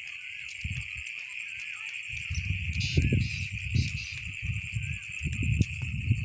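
A steady, high-pitched insect chorus, crickets, over irregular low rumbling that grows louder about two seconds in.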